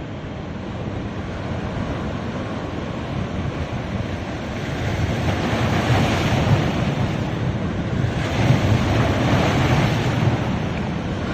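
Ocean waves breaking and washing up a beach, with two waves surging in, one about halfway through and one near the end, under wind rumbling on the microphone.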